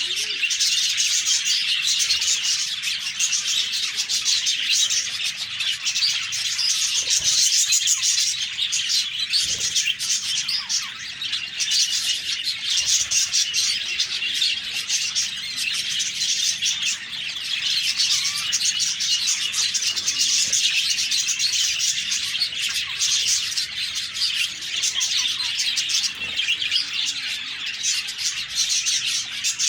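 A flock of budgerigars chirping and warbling together in a dense, continuous chatter.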